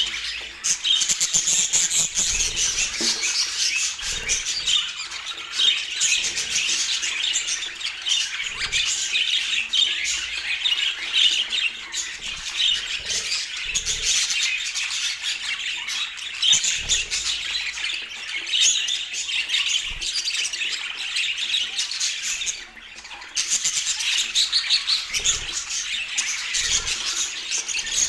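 Budgerigars chattering nonstop in rapid chirps, warbles and squawks, broken by a brief pause about three-quarters of the way through.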